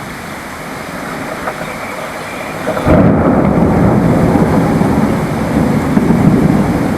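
Steady rain, then a loud roll of thunder that breaks in suddenly about three seconds in and keeps rumbling.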